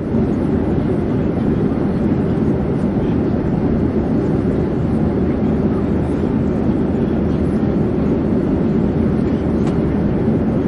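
Airplane in flight: a steady, even noise of engines and rushing air, heaviest in the low range and unchanging throughout.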